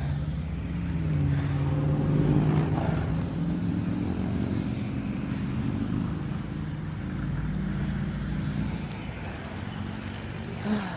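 A motor vehicle's engine running close by, a steady hum that is loudest about two seconds in and eases off later. A short knock near the end.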